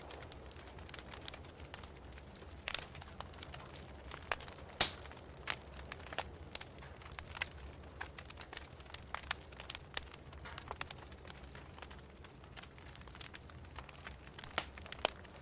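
Wood fire crackling in a fireplace: irregular sharp snaps and pops over a low steady hum, with the loudest pop about five seconds in.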